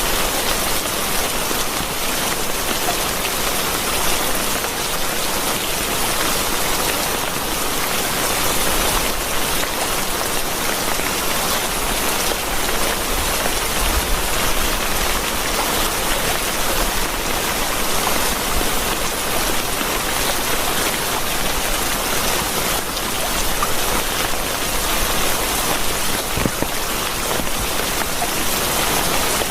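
Steady rain falling, an even hiss of drops that holds without a break.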